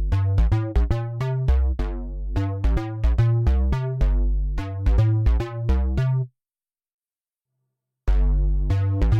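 Waldorf Pulse 2 analog monosynth playing a fast, plucky bass sequence, each note opening bright and quickly closing down. It stops about six seconds in, and after nearly two seconds of silence a new bass pattern starts.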